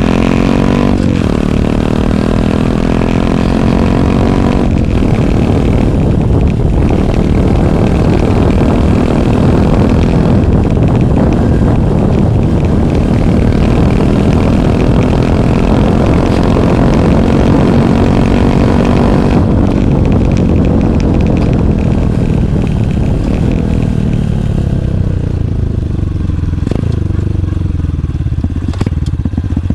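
Honda CT125 Hunter Cub's single-cylinder four-stroke engine through a Minimoto SP Classic muffler with the baffle removed, heard close to the muffler. The engine revs up with a short dip about a second in, then runs at a steady high pitch. In the last ten seconds it winds down as the bike slows, and it picks up again right at the end.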